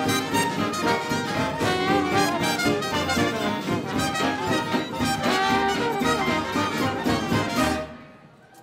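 Big dance orchestra with trumpet and trombone playing a 1920s hot dance tune, which stops sharply near the end.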